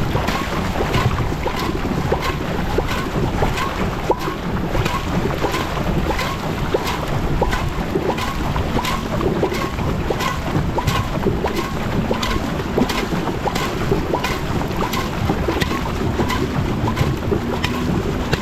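Rowing shell under way at a fast racing stroke rate: water rushing past the hull and wind on the microphone, with sharp regular clicks about twice a second from the boat's moving rigging.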